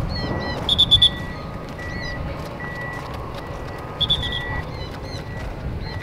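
Short, shrill bird calls and chirps over a low outdoor rumble, with a run of short high beeps about two a second, like a vehicle's reversing alarm.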